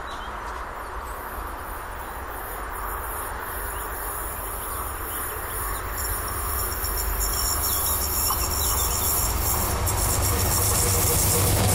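Siemens ES 64 U2 Taurus electric locomotive hauling a container freight train, approaching: its steady rolling noise grows gradually louder.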